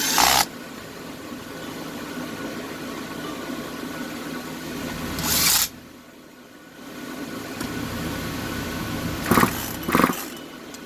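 Recoil starter of an Echo CS-271T two-stroke chainsaw pulled four times, short whirring rasps that turn the engine over without it firing: a compression check. A steady hum runs underneath.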